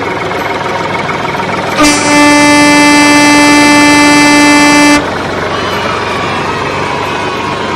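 A vehicle horn blares once, held steady for about three seconds, over a continuous background rumble of vehicle noise.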